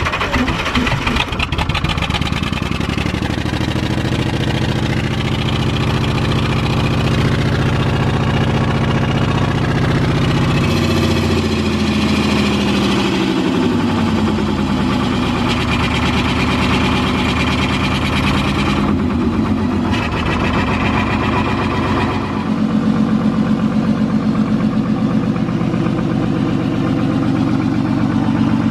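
Classic truck's engine running and being revved: the pitch climbs in the first couple of seconds, holds, falls and rises again around the middle, then settles to a steady, throbbing idle for the last few seconds.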